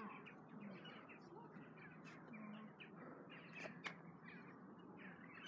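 Near silence: faint outdoor ambience with scattered distant bird calls.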